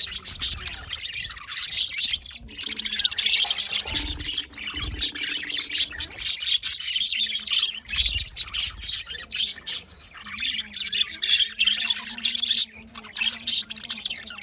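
A flock of budgerigars chirping and chattering without pause, many rapid overlapping high-pitched chirps.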